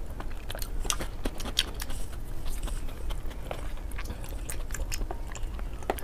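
Close-miked chewing of soft, fatty braised pork: irregular wet mouth clicks and smacks over a low steady hum.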